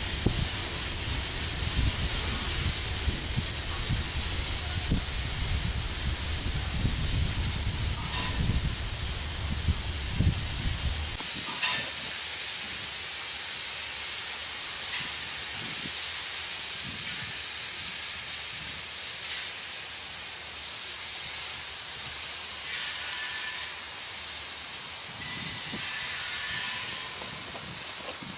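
Iron ore freight train rolling past: low rumble of the cars' steel wheels on the rails with a steady hiss over it. About 11 seconds in the rumble cuts off suddenly, leaving only a quieter, even hiss.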